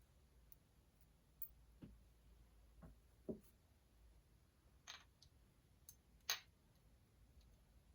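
Faint scattered clicks and light knocks of small metal engine parts being handled and set down, about half a dozen over several seconds, the loudest about three and six seconds in.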